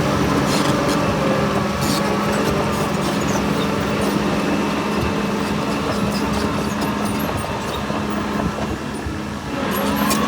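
Heavy diesel earthmoving machinery running steadily, with scattered metallic clanks. The engine note dips briefly near the end.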